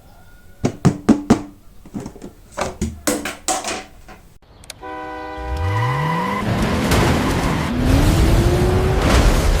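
A run of sharp clicks and knocks, then a car engine revving up, its pitch climbing steadily with a gear change about two-thirds through, over a sustained musical tone.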